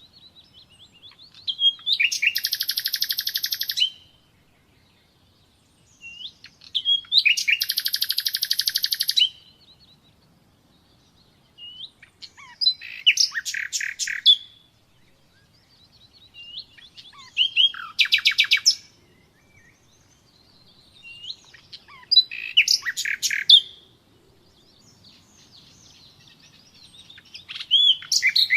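Common nightingale singing: about six song phrases a few seconds apart, each a fast rattling trill of rapidly repeated notes, with short whistled notes in the pauses between.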